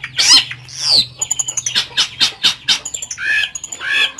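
Long-tailed shrike (cendet) singing a fast, varied song of harsh chattering notes, quick clicks and falling whistles, with a couple of lower arched notes near the end, woven with mimicked calls of other birds.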